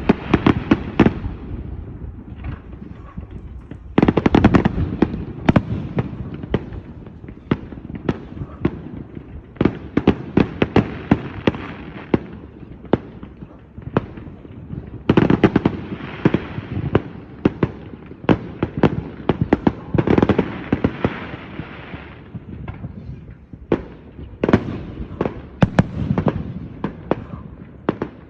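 A fireworks display: shells bursting with loud booms and rapid crackling, coming in heavy clusters several times with thinner crackle between them.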